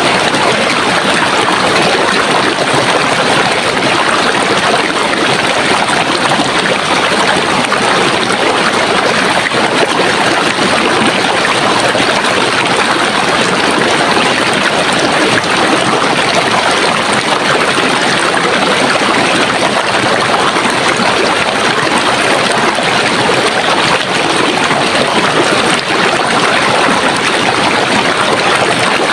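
Running water: a stream flowing with a steady, even rush.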